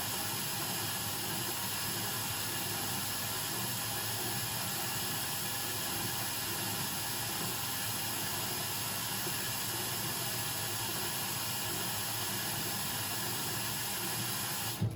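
Blomberg WAF 7442 SL washing machine running steadily: an even rushing hiss over a low hum, cutting off suddenly near the end.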